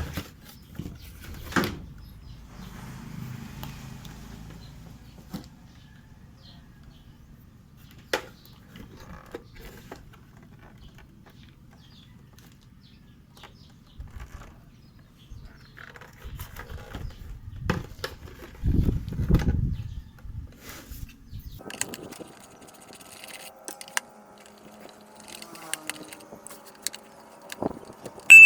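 Scattered clicks, taps and knocks of hands handling equipment, with a faint low hum under the first half and a busier patch of light rattling near the end.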